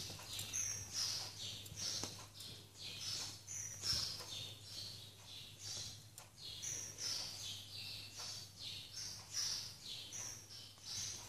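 Small birds chirping over and over, about two short high chirps a second, over a steady low hum.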